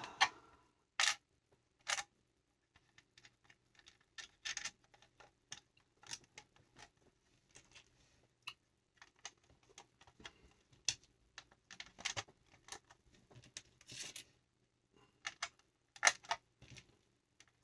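Small plastic LEGO pieces clicking and clattering as they are handled and pressed into place: irregular sharp little clicks, a few louder ones standing out among them.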